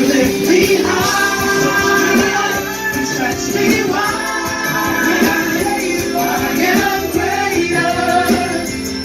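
Live worship band music with voices singing over the instruments and jingling percussion.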